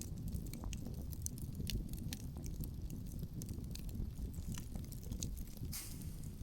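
Wood fire crackling outdoors, with irregular sharp pops and snaps over a steady low rumble of wind and flame, and a brief louder hiss near the end.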